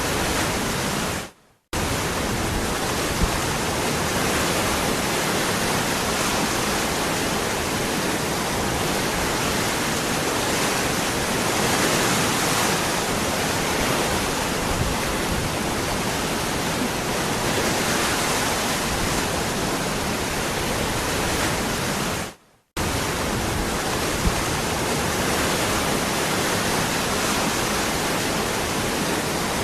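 Waterfall rushing steadily, a dense, even hiss of falling water. It cuts out to silence for a split second twice, about a second and a half in and about three-quarters of the way through.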